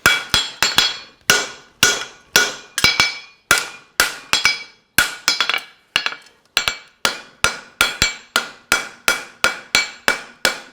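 Farrier's hammer striking hot steel on an anvil, upsetting ('bumping') the horseshoe bar to thicken it. Steady blows about two to three a second, coming closer together in the second half, each with a short metallic ring.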